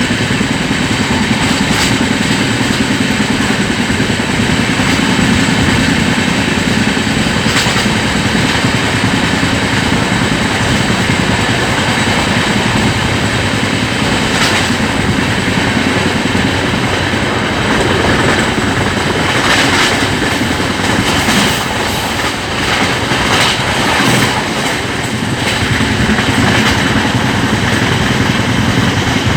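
Vaishali Superfast Express running through a station at speed without stopping: a steady rumble of coaches passing, with wheels clattering over rail joints in sharp clicks that come more often in the second half.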